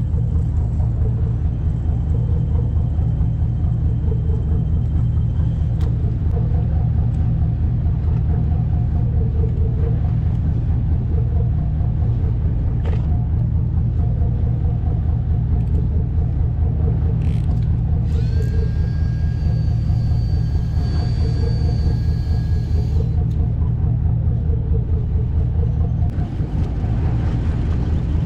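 Fishing boat's engine running steadily: a low, even rumble.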